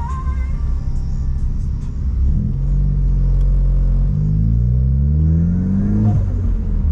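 Turbocharged Ford Focus ST engine pulling under acceleration. The pitch holds low, then rises steadily for about two seconds and drops suddenly near the end at a gear change. No exhaust burbles are heard, though the new tune was supposed to add them above 3,000 rpm.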